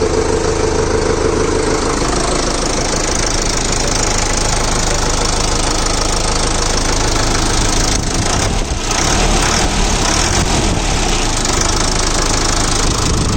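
Sonalika Tiger DI 55 tractor's Zetor-derived diesel engine running steadily at a loud idle, a sound likened to the old HMT tractors.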